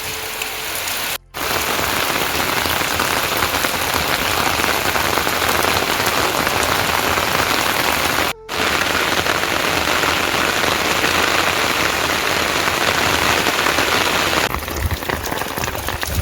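Heavy rain falling steadily, a dense even hiss, broken by two brief silent dropouts about a second in and about eight seconds in.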